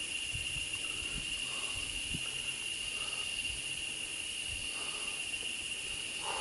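Rainforest insect chorus: a steady, unbroken high-pitched buzzing drone.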